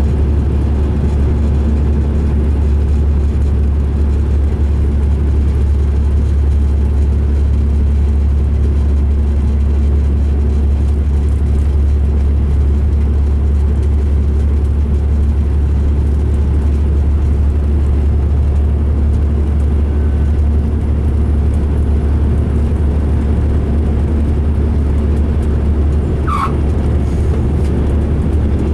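2005 MCI D4500 coach's diesel engine and road noise, a steady low drone at an even speed, on a coach whose running its rider calls rough. A brief high squeak about 26 seconds in.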